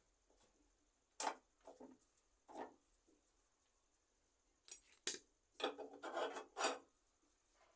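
Short scraping and rubbing strokes on a hard surface: a few single strokes in the first few seconds, then a quicker run of them near the end.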